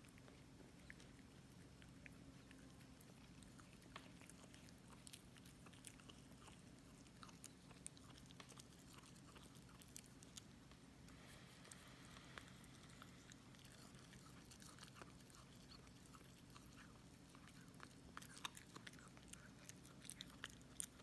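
A five-week-old Jindo puppy chewing and gnawing, with faint scattered crunches and clicks of its teeth that come more thickly near the end, over a low steady hum.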